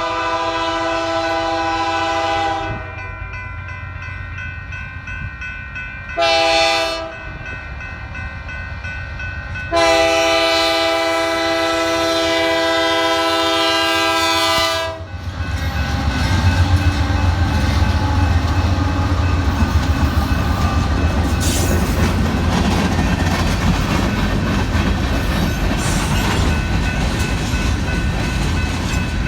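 Union Pacific diesel locomotive's multi-chime horn sounding a long blast, a short blast and another long blast, the close of a grade-crossing signal. The train then passes close by: a deep locomotive engine rumble and wheels clattering over the rail joints.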